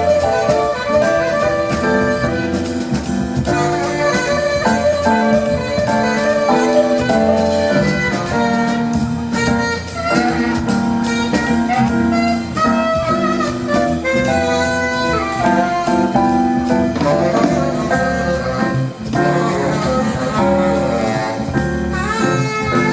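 Live jazz combo playing: a horn carries the melody over piano, bass and drums, with a steady beat.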